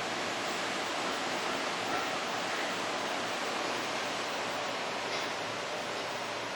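Steady, even rushing of ocean surf, with no single wave standing out.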